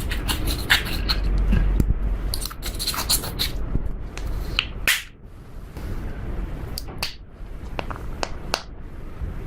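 Slime being squished and worked by hand, giving irregular sharp clicking pops over a low rumble; the pops thin out after about five seconds.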